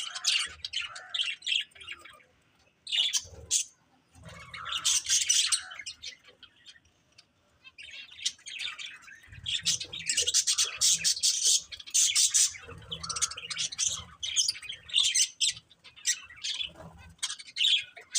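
Budgerigars chirping in quick, high, busy runs, with a brief pause about two seconds in and a longer lull from about six to eight seconds.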